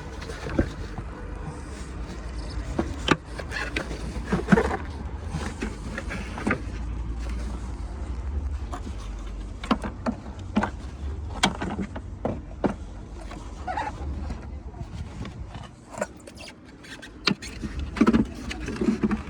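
Irregular plastic clicks and knocks from handling a Peugeot 308 SW rear lamp unit and its bulb holder as the clip is released, over a steady low rumble.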